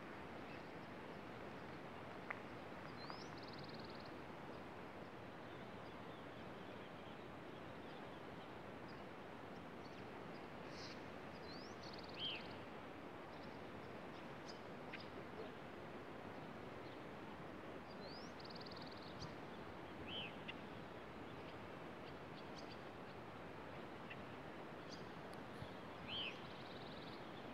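Steady outdoor background hiss with short, high bird chirps every few seconds, some rising and some arched, the clearest three spaced several seconds apart.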